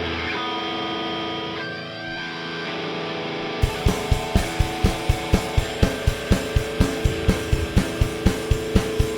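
Opening of a punk rock song: electric guitar rings out with held notes and slides down in pitch, then about three and a half seconds in a steady, fast beat comes in under the guitar.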